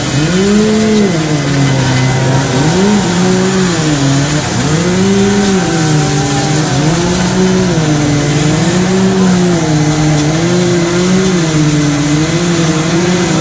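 Two-stroke chainsaw carving wood, its engine revving up and down over and over as the throttle is worked, the pitch rising and falling every second or so.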